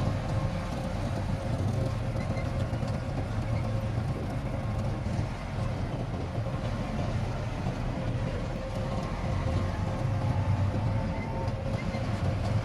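Heavy diesel engine of earthmoving machinery running steadily, with a deep drone and a faint steady whine above it.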